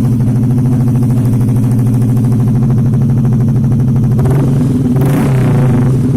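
Yamaha X-Ride scooter's single-cylinder four-stroke engine idling steadily through a Kawahara GT Pro stainless-steel aftermarket exhaust, with a short swell of louder, harsher sound about five seconds in.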